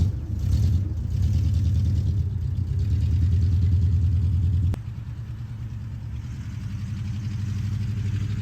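1973 Ford F100's engine running with a low, uneven pulsing rumble, which the owner thinks is misfiring for want of new plug wires. Just under five seconds in it drops suddenly to a quieter, steadier run after a sharp click.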